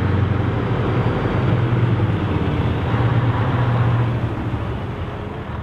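Diesel engine of a Scania semi-truck running as the tractor-trailer drives slowly past, a steady low drone that weakens toward the end.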